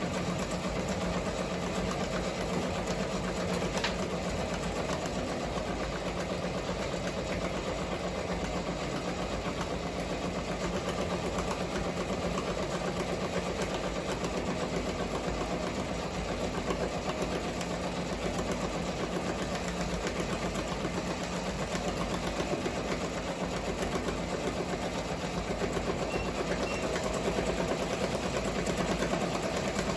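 Ricoma multi-needle embroidery machine running steadily, stitching with a fast, even mechanical clatter. It is loud with a smacking in it, which the technician takes for something striking inside that is not stopping the machine or spoiling the stitching.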